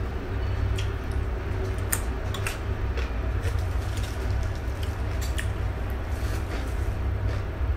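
Crisp crunching of raw carrot and lettuce stem being chewed close to the microphone: scattered sharp crunches at uneven intervals, over a steady low hum.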